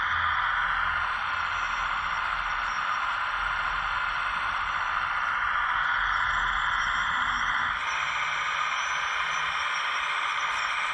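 The hydraulic pump of a 1/15-scale RC excavator running, a steady hissing whine. Its tone shifts a few times as the load changes, most clearly about eight seconds in.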